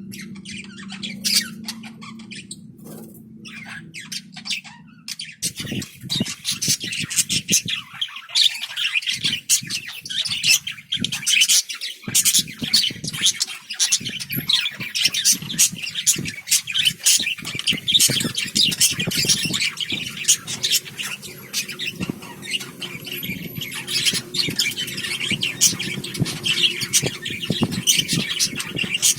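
Small pet parrots chattering and squawking in a rapid, continuous stream of chirps and clicks, starting about five seconds in. Before that, a steady low hum with a few scattered clicks.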